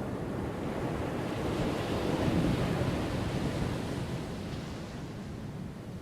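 Ocean waves crashing on a shore: a wave swells and breaks about two seconds in, then the wash eases off.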